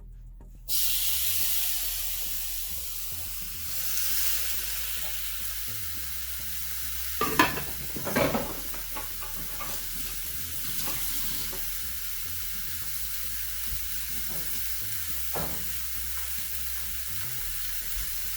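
Seasoned chicken sizzling on a hot oiled grill, the sizzle starting suddenly about a second in as the meat goes down and then running steadily. A few knocks sound about halfway through.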